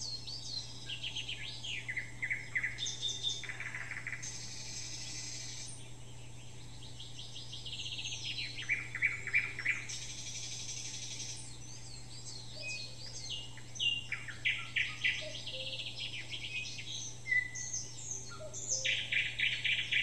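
Several songbirds singing and calling together: quick falling chirps and fast trills, overlapping one another, over a faint steady low hum.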